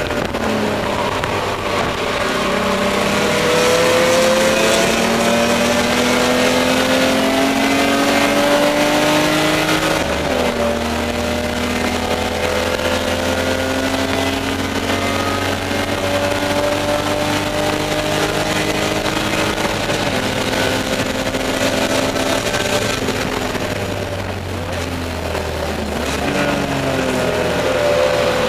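BMW E30 race car's straight-six engine heard from inside the stripped cabin, revving up under full throttle with upshifts about ten and twenty seconds in, then easing off briefly near the end before pulling again.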